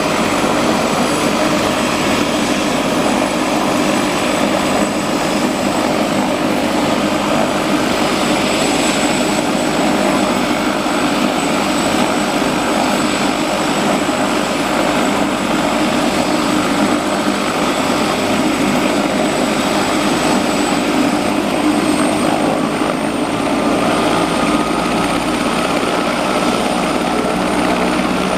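A helicopter running after its engine start, engine and rotor making a loud steady noise with a thin high whine over it. The whine rises a little in pitch late on.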